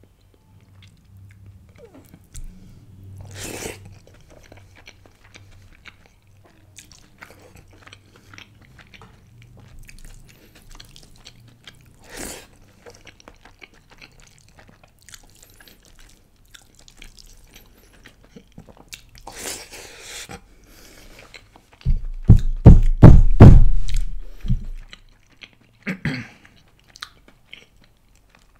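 Close-miked eating sounds: a person eating chicken biryani by hand, with chewing, biting and soft wet mouth and rice sounds. About two-thirds of the way through comes a run of loud, low thumps lasting two to three seconds.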